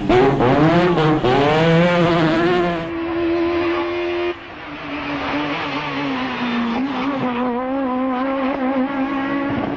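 Rally car engines revving hard, the pitch climbing and dropping through gear changes. The sound cuts abruptly about 3 s in to a held note, then just past 4 s to a quieter, steadier engine note.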